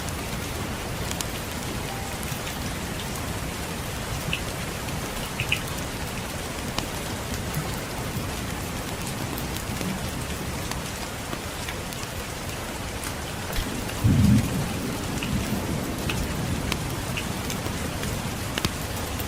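Steady rainfall with scattered small crackles from a fireplace, and a short low rumble of distant thunder about two thirds of the way through that fades over a couple of seconds.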